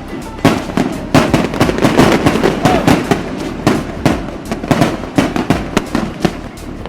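Aerial fireworks going off in rapid succession: many sharp bangs and crackles overlapping, thickest through the middle seconds.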